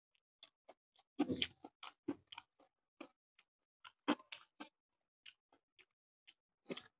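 Close-miked chewing of beef and rice: sparse wet mouth clicks and smacks, a little busier about a second in and again about four seconds in, along with soft sounds of fingers mixing rice on the plate.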